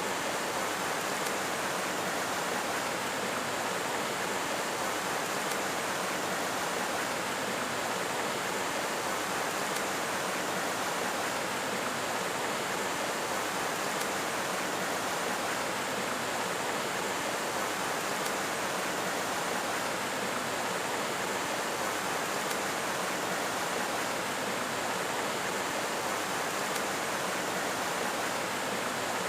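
Steady, even rush of flowing water, unchanging in level.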